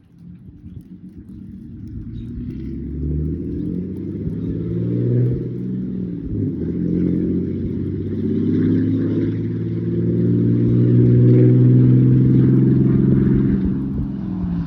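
Truck engine revving: its note climbs in steps over several seconds, holds at its loudest for a few seconds, then eases off near the end.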